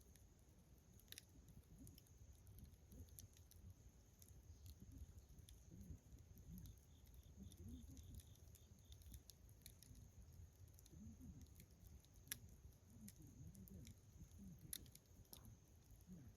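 Wood bonfire crackling faintly, with scattered sharp snaps and pops at irregular intervals over a low rumble.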